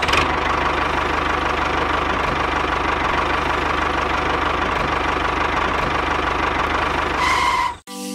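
Small engine of a homemade mini tractor cultivator running steadily with a fast, even chugging, then cutting off abruptly near the end.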